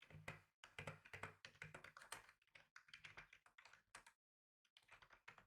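Typing on a computer keyboard: quick runs of keystroke clicks, with a short pause about four seconds in before a brief last flurry.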